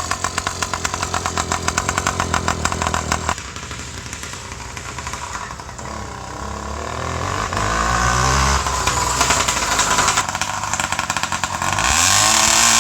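Small two-stroke 66cc bicycle engine running with rapid popping firing pulses, then revving up and down; near the end the pitch swells and drops.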